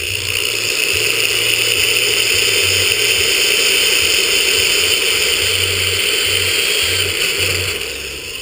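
Power drill running steadily with a high whine as it bores a pilot hole through the bike's tail section, winding down near the end.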